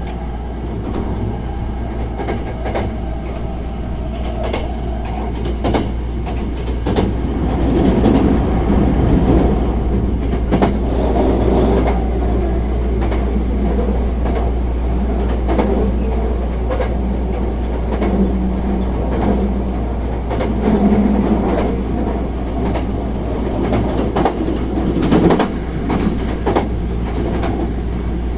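Hankyu 1000 series electric train with Toshiba IGBT-VVVF drive running along the line, heard from inside the car: a steady low rumble with wheel clicks over rail joints.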